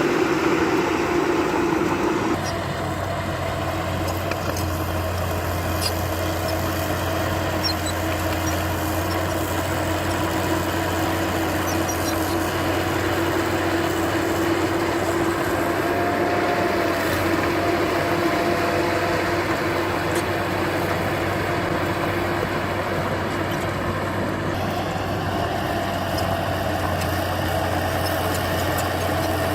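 Heavy earthmoving machine's diesel engine running steadily, its tone shifting slightly about two seconds in.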